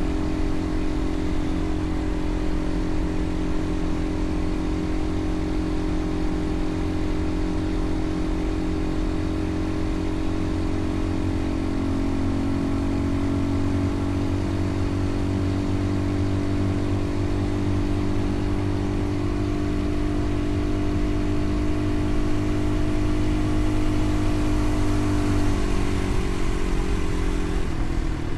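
A vehicle engine running at a steady pitch under a rush of wind and road noise, then dropping in pitch about two seconds before the end as it slows or shifts.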